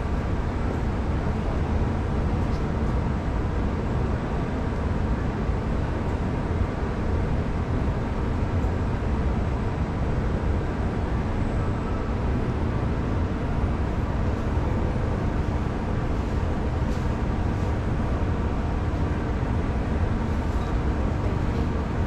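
Steady hum and rumble of an MRT train standing at the platform with its doors open, its air-conditioning and machinery running, with faint steady tones over the noise.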